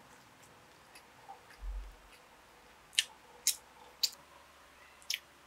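Close-up eating sounds: a few short, sharp mouth clicks from chewing, between about three and five seconds in, after a soft low thump a little before two seconds in.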